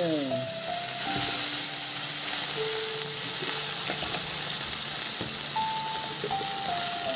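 Food frying in hot oil in a wok: a steady sizzle, with a few light knocks as it is stirred with a metal spoon.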